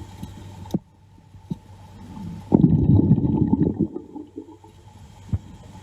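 Muffled underwater sound: a steady low hum with a few sharp clicks, then about two and a half seconds in a loud rumbling gurgle of bubbles lasting over a second.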